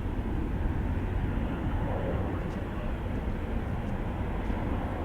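Jet airliner engines running at a distance: a steady low rumble with a haze of noise over it.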